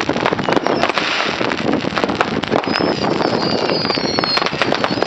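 Many consumer fireworks going off at once: a dense, steady crackle of firecracker pops and bangs. High whistling fireworks join in from about two and a half seconds in.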